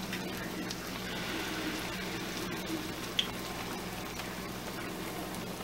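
Banana fritters frying in hot oil in a pan: a steady, even sizzle with small crackles, the oil hot enough that the batter fries at once. A steady low hum runs underneath.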